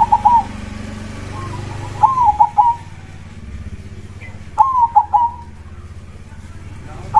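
Zebra dove (perkutut) cooing: repeated phrases of a longer note followed by a few quick short notes, about every two and a half seconds, over a low steady hum.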